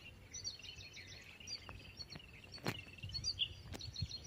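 Small birds chirping and calling in quick, high, repeated notes, with two sharp clicks in the second half.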